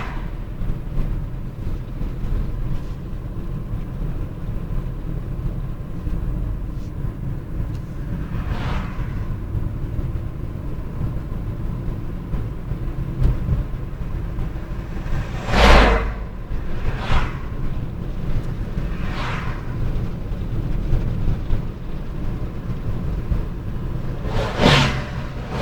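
Steady low road rumble with about five brief whooshes of vehicles passing, the loudest near the middle and another near the end.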